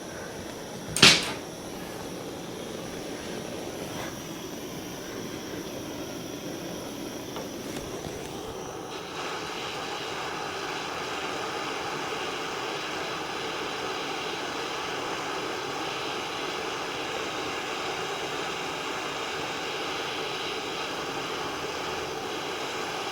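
Handheld butane torch flame hissing steadily as it heats a seized exhaust header-pipe nut, after a single sharp click about a second in. The hiss gets louder about nine seconds in and then holds steady.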